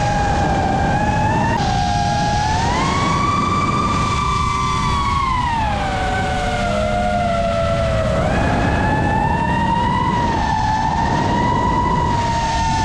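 A 5-inch FPV quadcopter's brushless motors and propellers whining, over a rush of air noise. The pitch follows the throttle: it climbs about two seconds in, drops around the middle, and climbs again a little after eight seconds.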